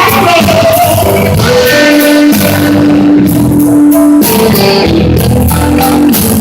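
A blues-rock band playing live, with guitar and a drum kit, and one long note held through the middle.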